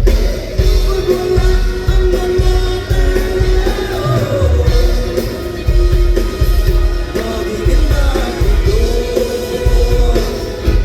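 Live pop-rock band playing, with drums keeping a steady beat under bass, guitar and a lead singer.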